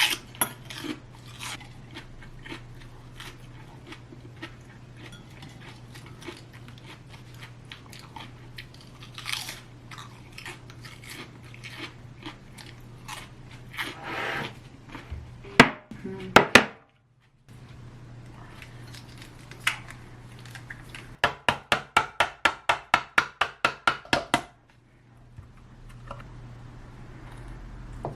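Crunchy chewing and small clinks of eating, then after a brief silence a fast, even run of about fourteen knife strokes on a cutting board, about four a second, over a steady low hum.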